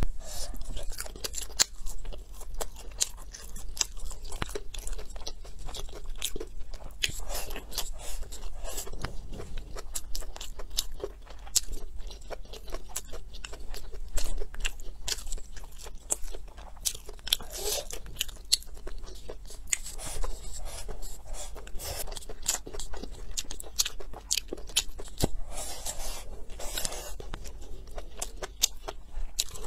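Close-miked chewing of food, with many sharp crunches and wet mouth clicks as a person eats stir-fried dishes.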